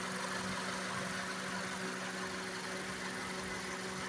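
2015 Honda CR-V engine idling steadily with the air conditioning running on high, a constant even hum.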